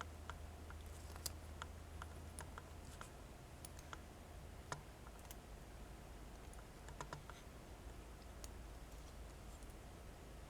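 Light, irregular clicks and taps of a small die-cast toy tractor and plow implement being handled and fitted together, over a faint steady low hum.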